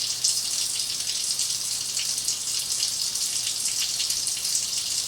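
Kitchen sink tap running steadily, left on so the slow hot water can warm up.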